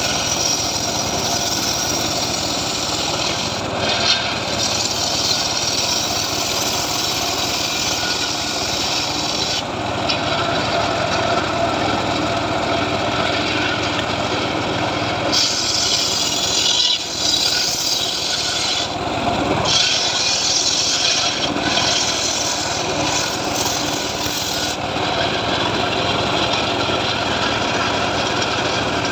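Homemade engine-driven portable sawmill (gergaji srekel) running and sawing through a sengon log: a steady cutting noise over the engine, its tone shifting a few times, brightest about halfway through.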